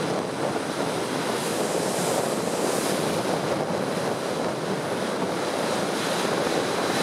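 Steady rush of wind on the microphone and water along the hull of a moving boat.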